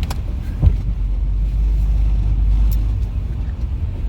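1998 Jeep Cherokee driving slowly through snow: a steady low rumble of engine and drivetrain, with a single thump under a second in and a few light clicks.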